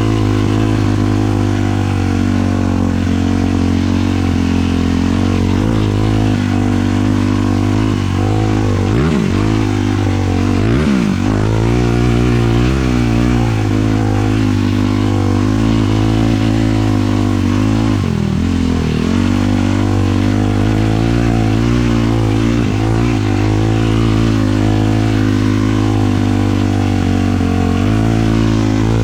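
450cc single-cylinder four-stroke sport quad engine running under way at fairly steady revs, with a few quick drops and rises in pitch about nine to eleven seconds in and again around eighteen seconds.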